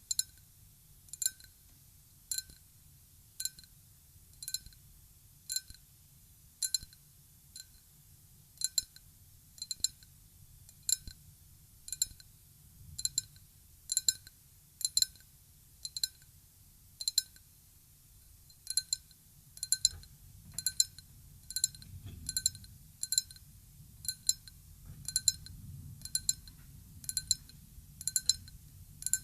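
Ryukyu glass tapped lightly and steadily, about once a second, each tap a clear, high glassy ring that dies away quickly. A faint low rumble rises under the taps in the second half.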